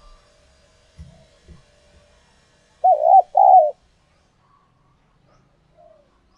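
A tame spotted dove cooing: two loud, deep coo notes in quick succession about three seconds in. This is the call used to lure wild doves.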